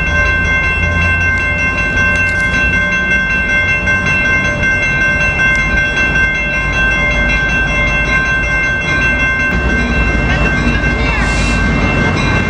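EMD F59PHI diesel-electric locomotive running, with a steady low engine rumble and a constant high-pitched whine over it.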